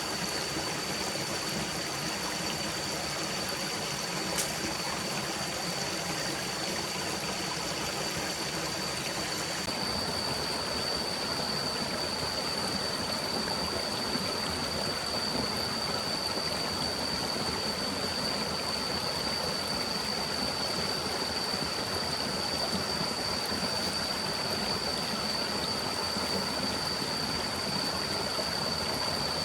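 Forest stream flowing steadily, an even rushing of water, with a thin, steady high tone over it and a single small click about four seconds in.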